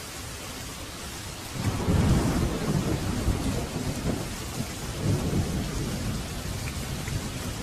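Steady heavy rain, with a roll of thunder breaking in about one and a half seconds in and rumbling on in several swells before it fades.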